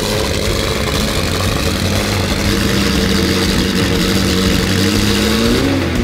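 McLaren 765LT's twin-turbo V8 idling steadily, its pitch rising slightly near the end.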